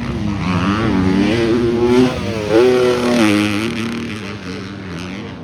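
250-class motocross bike engine revving hard, its pitch rising and falling repeatedly with the rider's throttle and gear changes; it is loudest about halfway through and fades near the end.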